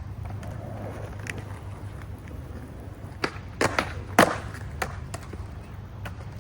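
Skateboard rolling over flat ground, then a run of sharp clacks from the deck and wheels hitting the ground during a trick attempt, the loudest about four seconds in.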